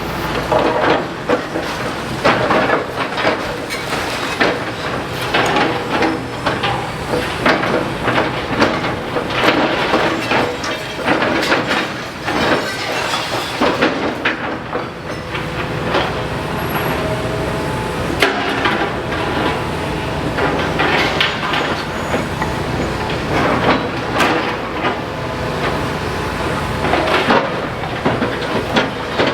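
Demolition excavator engine running steadily while masonry and rubble clatter and knock irregularly throughout.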